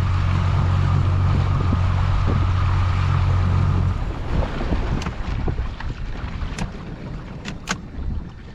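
A boat's motor running with a steady low hum, cutting off about four seconds in. Then wind on the microphone and water noise, with a few sharp knocks near the end.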